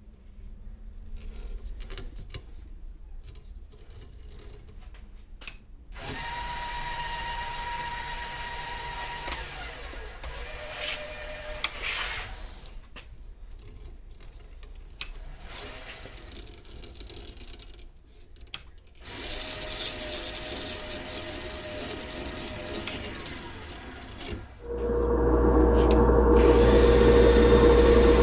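Electric power tool running in several spells with a steady hum, short pauses between them and light clicks, loudest in the last few seconds.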